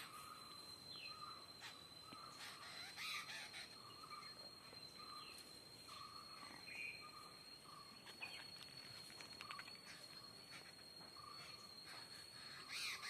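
Birds chirping faintly, short calls repeated again and again, over a steady high-pitched whine. There are a couple of brief noisier bursts, one about three seconds in and one near the end.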